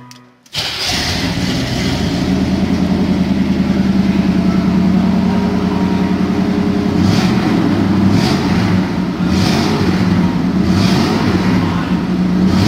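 1972 Chevelle SS's 454 big-block V8 running with a deep, steady rumble, coming in abruptly about half a second in.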